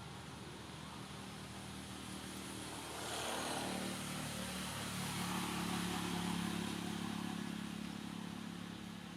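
A motor vehicle's engine running nearby, growing louder about three seconds in and then slowly fading, as a vehicle passing by would.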